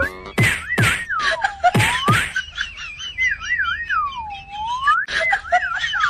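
A whistled phrase repeated over and over: a quick warbling trill, then a long swoop down in pitch and back up, each round about every two and a half to three seconds. Sharp knocks come through it, several in the first two seconds and another about five seconds in.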